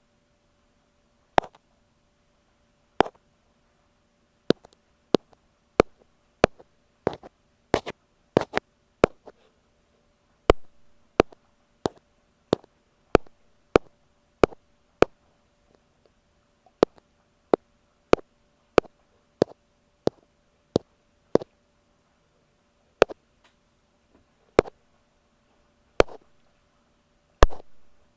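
Ear pick tapping on an earphone microphone: sharp, close taps, roughly one a second with a few quick doubles and triples, over a faint steady hum.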